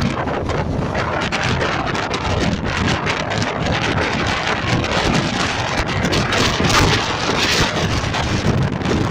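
Strong wind buffeting the microphone, a loud, continuous rumble and rush that gusts harder about two-thirds of the way in.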